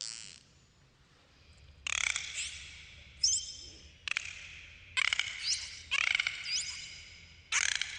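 Dolphins calling underwater: repeated buzzy trains of rapid clicks, about six, mixed with short rising whistles.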